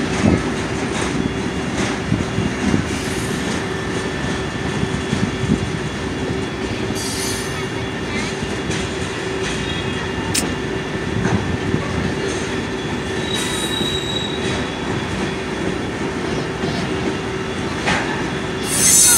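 Freight train of tank cars rolling steadily past, a continuous rumble and clatter of wheels on rail, with short high wheel squeals now and then.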